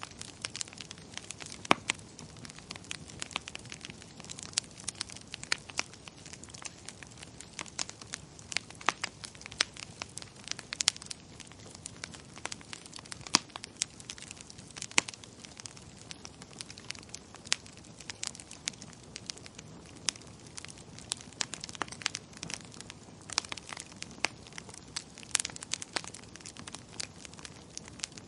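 Fireplace fire crackling: frequent irregular sharp pops and snaps, several a second, over a soft steady hiss.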